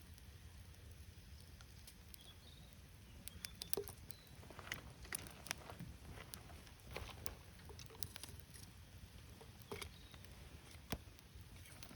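Faint crackling of a burning wood fire, with scattered sharp pops that come more often from about three seconds in, over a low steady rumble.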